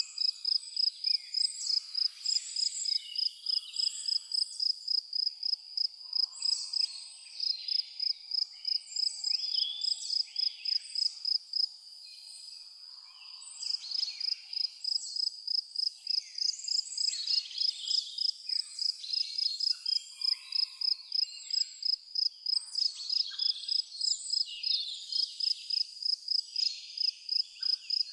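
A cricket chirping steadily at about three chirps a second, pausing briefly about twelve seconds in, with many birds calling and singing at once.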